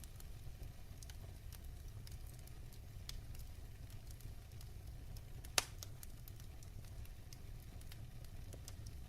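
Fireplace fire crackling: scattered small crackles over a steady low rumble, with one sharp, louder pop about five and a half seconds in.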